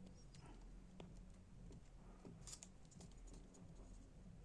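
Near silence, with a few faint clicks and taps from handling the plastic laptop keyboard as it is pressed into place.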